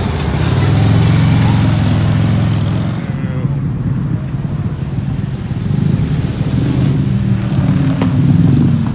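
Motorcycle engines running, a loud steady low engine note; the higher hiss drops away about three seconds in.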